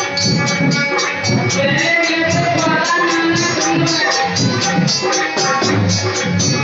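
Live Hindi devotional folk stage music: a gliding melody over a steady beat of jingling percussion and drum.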